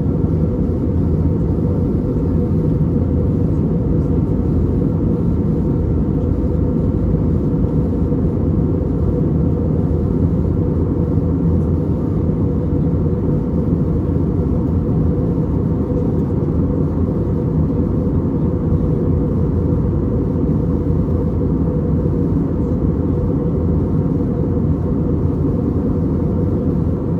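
Steady cabin rumble of an Airbus A320neo in flight, its CFM LEAP-1A engines and airflow heard from a rear economy seat, even and unchanging.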